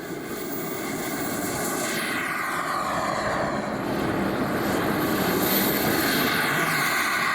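Radio-controlled model jet's turbine engine running, a high-pitched whine over a rushing jet noise that grows gradually louder.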